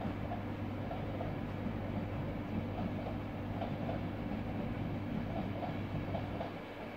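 LNER Class 800/801 Azuma train running on the line, a steady low hum with some rail noise; the hum drops away near the end.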